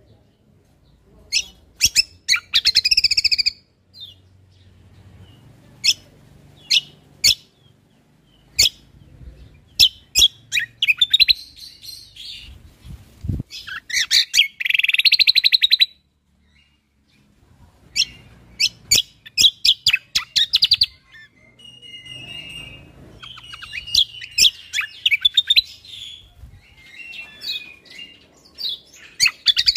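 Cucak kombo (kecial kombok) songbird singing in separate bursts of sharp chirps and rapid trills, each lasting up to about two seconds, with short pauses between them.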